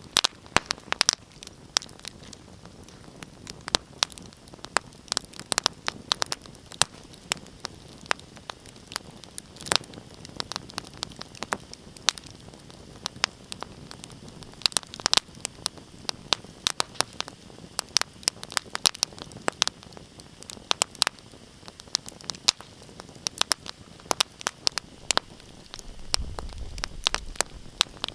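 Wood fire crackling in a fireplace: irregular sharp pops and snaps, many a second, over a soft steady hiss. A low rumble comes in near the end.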